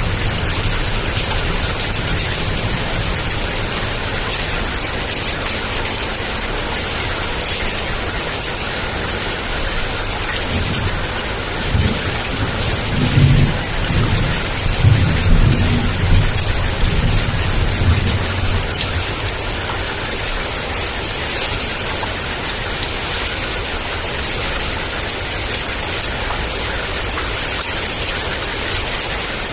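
Steady heavy rain pouring down, with thunder rumbling low and irregular for several seconds midway.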